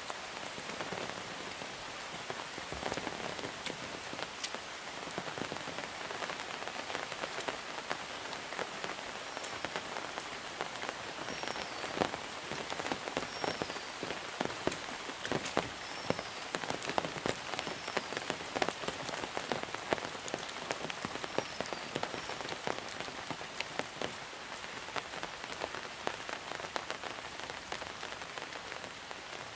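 Heavy monsoon rain falling steadily, a dense hiss with many close drops and drips ticking sharply. From about ten seconds in, a faint short high chirp repeats every second or two.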